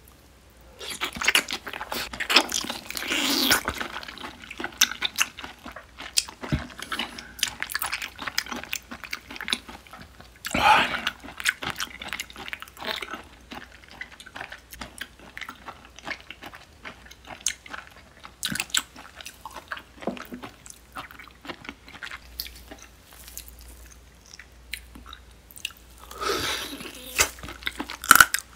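Close-miked wet chewing and slurping of raw sea squirt, many short squishy mouth clicks. The sounds come thickest about a second in, again around ten seconds in, and near the end as the inner flesh is sucked out.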